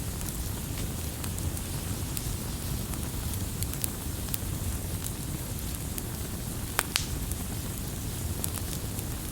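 Wood fire crackling: a steady hiss with scattered sharp pops, and two louder pops close together about seven seconds in.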